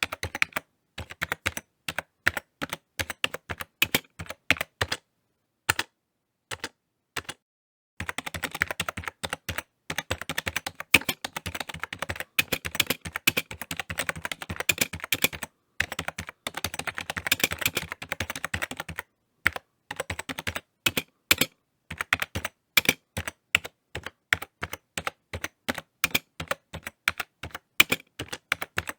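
Typing on a computer keyboard: quick key clicks in uneven runs, slowing to a few scattered keystrokes with a short pause about six seconds in, then fast dense typing before settling back to steady clicking.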